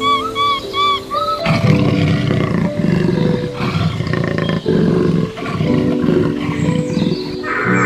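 An animal giving a series of loud, rough calls in several bursts, starting about a second and a half in, over background music. Brief chirping sounds come before the calls begin.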